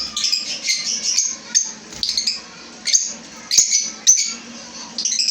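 A colony of caged lovebirds chirping: many shrill, high calls overlapping, with sharper calls coming in quick, uneven succession.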